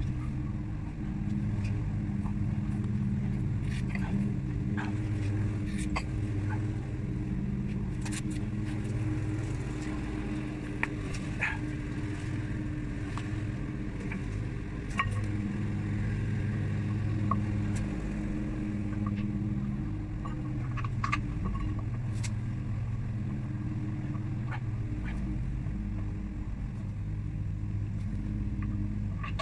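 A car engine running steadily, with low hum and road noise and a few faint clicks and knocks.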